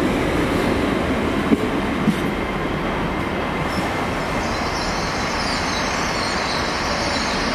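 Great Western Railway Class 800 train running past and away, a steady rumble of wheels on rail with two sharp clicks about one and a half and two seconds in. A high hiss joins about halfway through.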